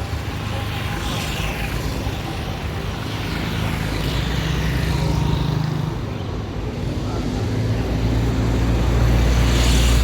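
Street traffic: motor vehicles passing close by. Their engine hum swells about halfway through, then again, louder, near the end.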